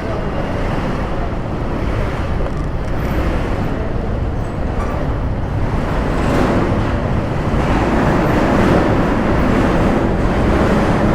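Steady rush of wind on the microphone and road traffic noise while riding a scooter through city traffic, growing a little louder after about six seconds.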